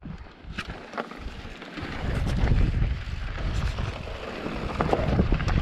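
Wind buffeting the microphone: a low rumble that grows louder about two seconds in, with scattered clicks.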